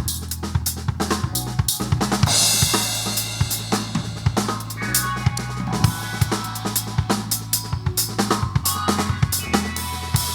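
Drum kit playing a dense improvised groove over sustained low bass notes, with a cymbal washing in about two seconds in.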